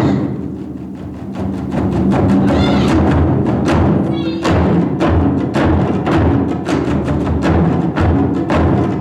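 Ensemble of Japanese taiko drums playing fast, dense strikes, softer for the first second or so and then building back to full volume. Brief high wavering pitched sounds rise above the drumming about three and four seconds in.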